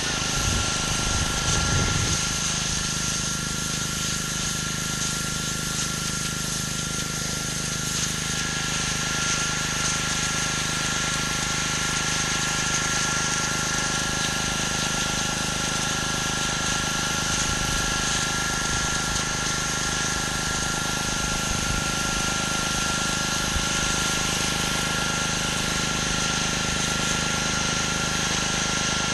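Gas pressure washer engine running steadily under the hiss of high-pressure water spraying on concrete.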